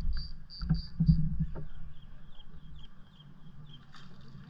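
Small birds chirping in short, rapidly repeated notes, with wind rumbling on the microphone, strongest in the first second and a half.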